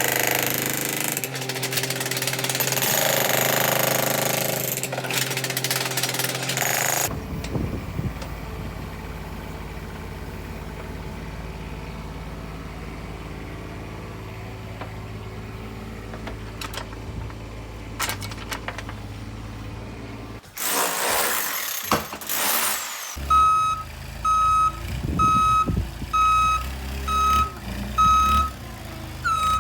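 Engine of a piece of building-site machinery running, loud and rough for the first seven seconds, then steadier and lower. In the last six seconds its reversing alarm beeps about once a second over the engine.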